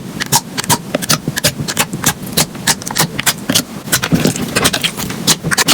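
Slime being squeezed and pressed by hand, giving a dense run of sharp little pops and crackles, several a second and irregular.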